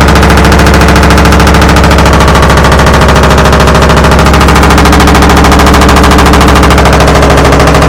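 Broken LG washing machine in the final phase of its spin cycle at 800 rpm, giving a loud, fast, continuous machine-gun-like banging and rattling that runs steadily without letting up.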